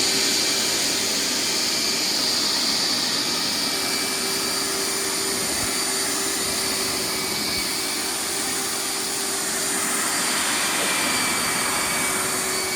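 Hoover wet/dry vacuum running steadily at a constant pitch while sucking water out of a saturated, flooded rug through its wet tank.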